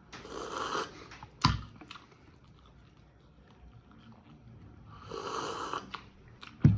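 A person eating noisily. There are two loud, hissy mouth sounds of about a second each, one near the start and one about five seconds in, with sharp smacks between them.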